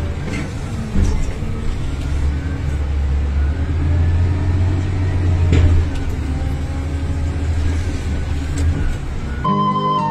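Heavy digger's diesel engine running steadily under load, with a few sharp knocks and cracks as it works. Flute music comes in near the end.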